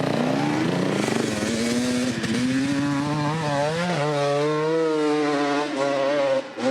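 Dirt bike engine revving hard. Its pitch climbs over the first second and a half, then holds high with small wavers and dips.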